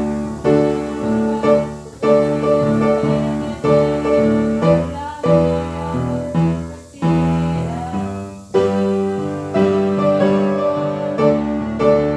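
Chapel piano playing slow chords, each struck chord ringing on and fading before the next, about one to two a second.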